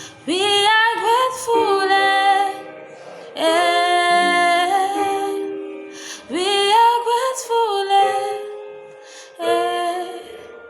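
A woman singing a slow gospel song in long held phrases, each scooping up into its first note and then easing down. A new phrase starts about every three seconds, and each dies away before the next begins.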